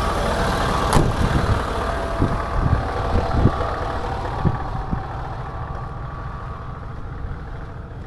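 Heavy machine's engine running steadily, with a sharp click about a second in and a few dull knocks over the next few seconds.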